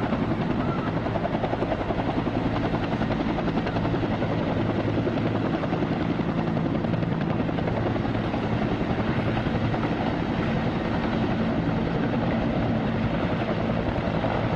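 Helicopter in flight, its rotor beating rapidly and evenly over a steady low engine drone.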